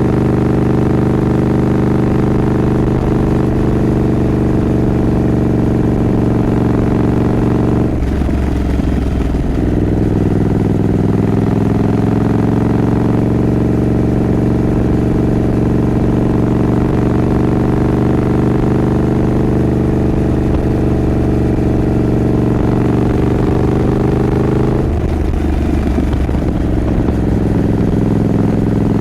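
Triumph Scrambler 900's parallel-twin engine pulling under way. The engine note breaks off briefly and comes back lower twice, about eight seconds in and again near the end, like upshifts, with a slow climb in pitch between.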